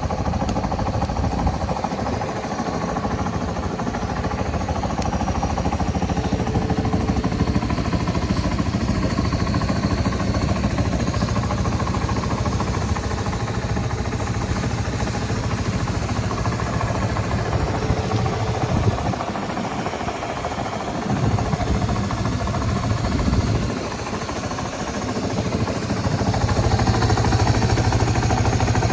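Yamaha Serow 225W's air-cooled single-cylinder four-stroke engine idling steadily. Its note dips and picks up a few times in the last third.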